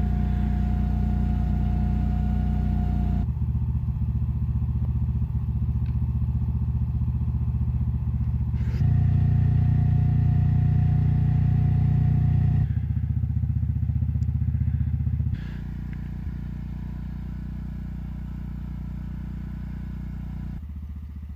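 Briggs & Stratton portable generator engines running steadily, in a string of recordings that switch abruptly every few seconds. The later part is noticeably quieter.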